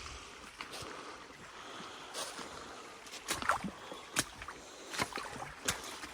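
Boots splashing and scraping in a shallow, rocky stream: several separate steps from about two seconds in, over steady running water.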